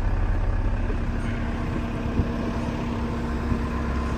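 Caterpillar 914 wheel loader's diesel engine idling steadily, with a light knock about two seconds in.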